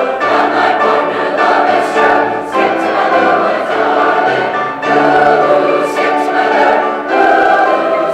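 Large choir of middle and high school voices singing sustained chords, in phrases that break and start again about every two seconds.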